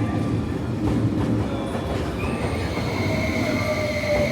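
Passenger train running with a steady rumble; about halfway through a high, steady squeal of the kind wheels or brakes make comes in, with a lower tone sliding slightly down.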